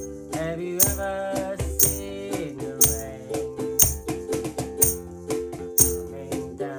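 Instrumental passage from a one-man band: a steady drum beat, with a strong hit about once a second and lighter shaker-like hits between, under held chords and a melody line.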